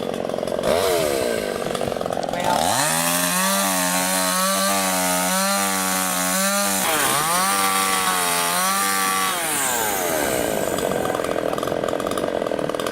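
Two-stroke chainsaw with a SVENA engine revved up to full throttle and held about four seconds, dipping briefly, revved again for about two seconds, then falling back to a low idle.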